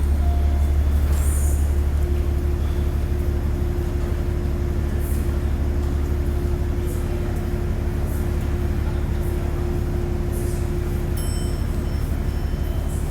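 Station elevator running: a steady low hum from its machinery with a fainter steady tone above it, and brief high electronic tones near the end.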